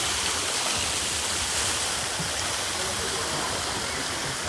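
Steady rushing of flowing hot-spring water.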